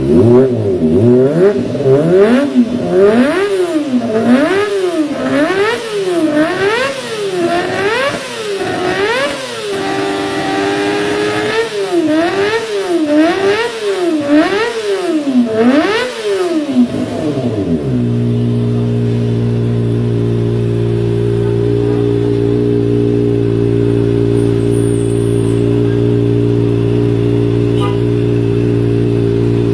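Superbike engine blipped through its exhaust again and again, the revs rising and falling roughly once a second with a brief steady hold partway through. About eighteen seconds in it drops to a steady idle.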